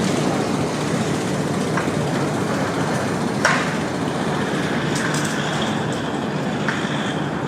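Keikyu Line train running by on the rails, a steady rumble with one sharp knock about three and a half seconds in and a faint high tone near the end.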